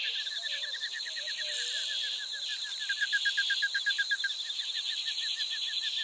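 Birds calling outdoors: a fast, even trill of short, slightly falling notes, about eight a second, over a steady high hiss.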